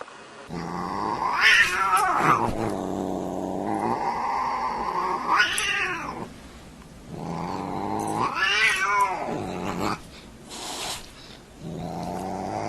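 Cat yowling: three long, drawn-out wails, each swelling up to a high pitch and falling away again.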